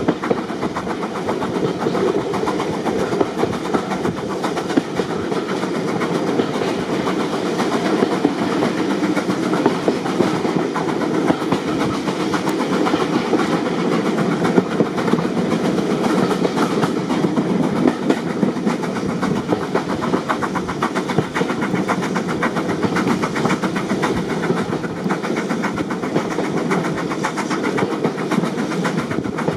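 Train carriage running steadily along the track, heard from on board: a continuous rumble with a rapid clatter of wheels on the rails.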